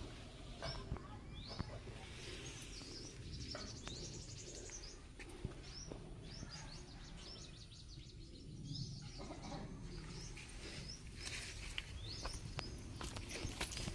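Birds chirping: many short, high chirps from several birds, over a steady low rumble.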